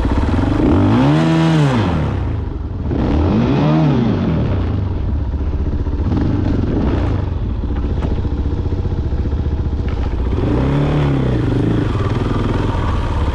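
Dirt bike engine running, revved up and back down three times: twice in the first few seconds and once more near the end.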